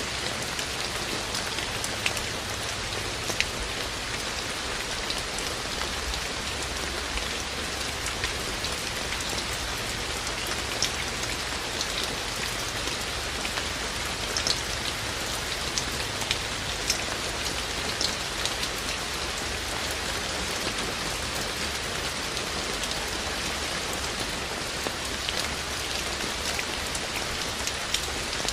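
Steady rain falling, a constant hiss with sharp individual drops ticking on a hard surface.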